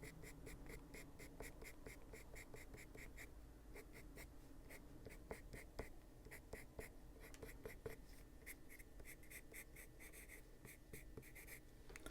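Quiet scratching of a Caran d'Ache Luminance coloured pencil shaded back and forth on paper, in quick, even strokes about four or five a second, with a few short pauses.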